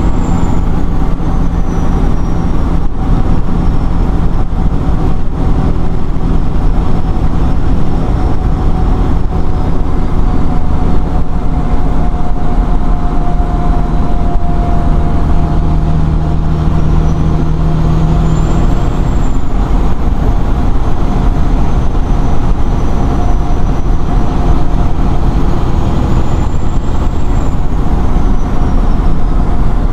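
1997 Peterbilt 378's 12.7-litre Detroit Diesel Series 60 engine running steadily under way. A faint high whine rises and falls twice in the second half.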